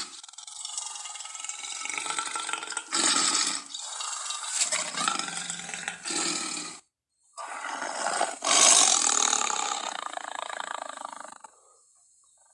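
Big-cat roars and growls, edited together from lion, tiger and leopard recordings as creature sound effects. Several short growls with a brief silent break about seven seconds in, then a longer roar that fades out near the end.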